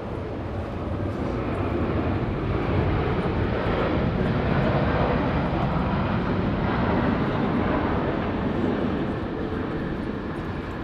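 Jet airliner passing by, its engine rumble swelling over a few seconds and then fading away.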